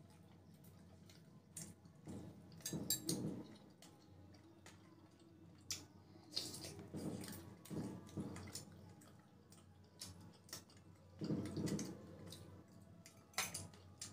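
Close-miked eating sounds: soft, wet chewing and lip smacks from mouthfuls of idli, broken by many sharp little clicks.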